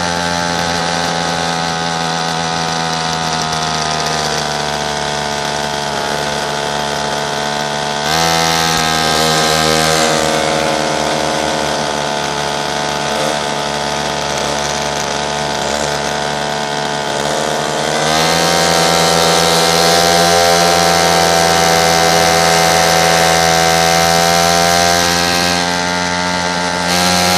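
Pocket bike's small engine running steadily, revving up to a higher pitch about eight seconds in and again around eighteen seconds, then easing off shortly before the end.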